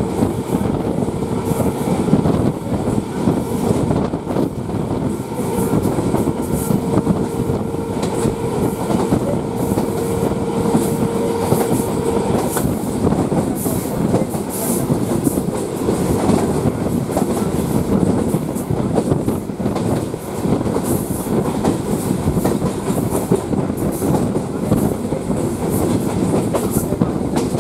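Indian local passenger train running at speed, heard from an open coach doorway: a steady rumble and rattle of the coach and its wheels on the rails. A steady whine rides over it for about the first twelve seconds, then drops away.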